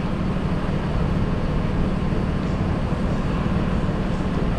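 Steady city street din: a low rumble of traffic with an engine hum.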